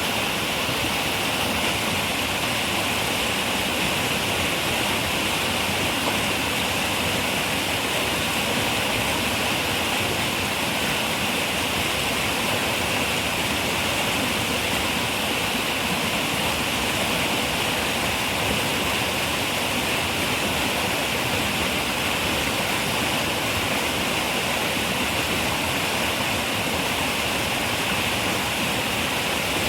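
River water running over rocks, a steady rushing hiss with no change in level.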